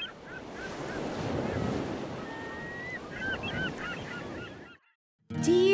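Birds crying in short, repeated hooked calls over a steady rushing outdoor noise, with one longer drawn-out note in the middle; it all cuts off about a second before the end.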